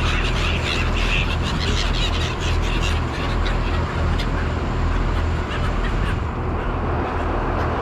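Gulls calling noisily over a boat, the calls thinning out about three seconds in, above the steady low drone of the boat's engine.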